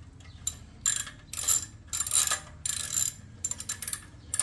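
Ratchet wrench cranked back and forth to tighten a motorcycle exhaust pipe clamp, clicking in about six short bursts, one per stroke.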